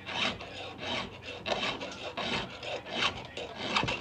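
Hand file stroking across a chainsaw chain's cutter, about six scraping strokes in four seconds.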